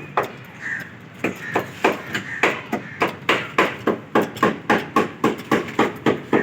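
Hammer blows on metal, a few scattered strikes and then a steady run of about three a second, each with a short ring.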